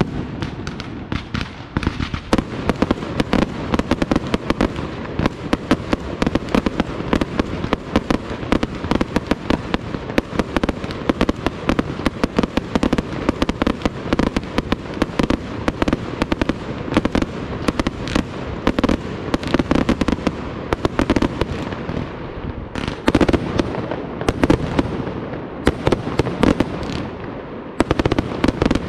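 Aerial fireworks display: a dense, unbroken barrage of shell bursts and crackling stars, many sharp bangs a second. A louder flurry of reports comes about three-quarters of the way through.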